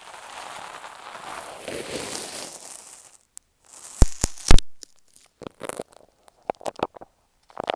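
Kinetic sand crunching and crackling as it is worked against an earphone microphone for about three seconds. This is followed by a few sharp knocks against the mic and then scattered light taps.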